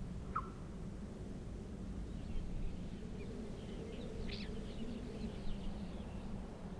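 A bird gives a single short falling chirp about half a second in, then fainter scattered high chirps through the middle, over a steady low background hum.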